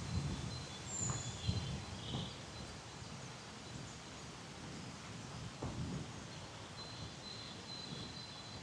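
Small birds calling with short, high chirps over a low outdoor rumble, with a few soft footsteps on the path.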